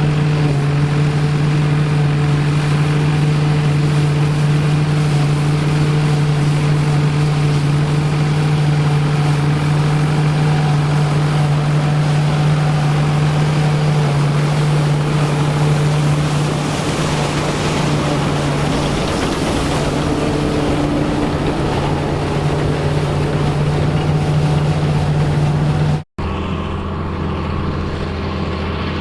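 Engine of vintage harvest machinery running steadily at a constant speed with a strong, even drone. Near the end the sound cuts abruptly to another engine with a lower hum.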